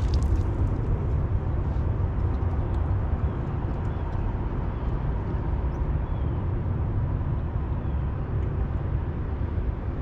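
Steady low rumble of a fishing boat on the river, with no distinct events.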